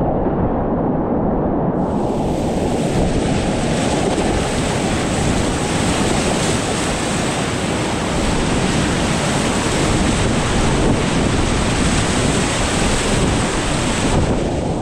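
Rushing whitewater rapids heard close up: a loud, steady roar of water. It is muffled at first, turns bright and hissing about two seconds in, and goes muffled again near the end.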